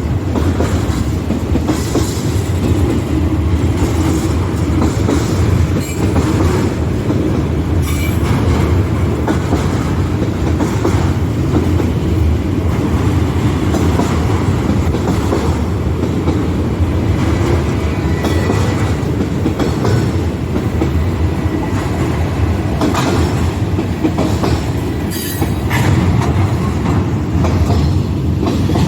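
A train rolling past with a steady, loud rumble of wheels on rail. Scattered clicks run through it, and there is a brief thin wheel squeal a little past halfway.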